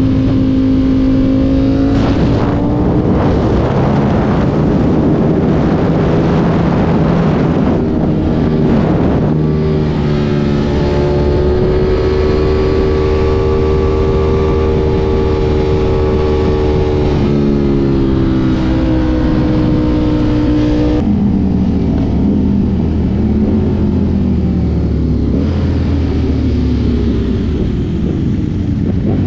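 Sport bike engine heard from the rider's seat: it revs up and changes pitch a few times in the first ten seconds or so, holds a steady note, then drops and falls away as the bike rolls off and slows. Wind rush over the helmet and bike runs under it throughout.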